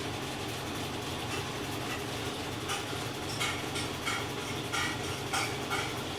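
GE Ecoperformance 15 kg washing machine running with a steady hum. From about halfway through, short squeaks repeat roughly every half second over it.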